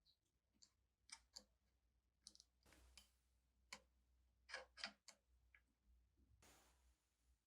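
Near silence with faint, irregular small clicks and a couple of brief soft rustles.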